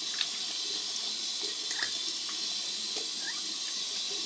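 Shaving-soap lather fizzing with a few faint, scattered pops as its bubbles burst and the lather collapses, over a steady hiss.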